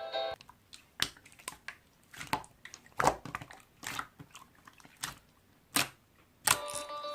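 Irregular sharp clicks and soft knocks, roughly a dozen spread unevenly over several seconds. Background music cuts off just after the start and comes back near the end.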